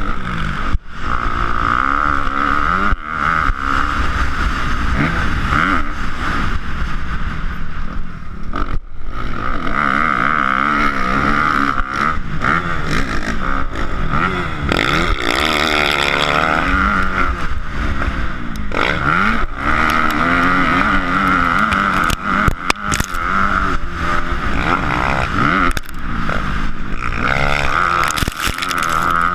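Motocross dirt bike engine running hard, its pitch rising and falling over and over as the rider opens and closes the throttle.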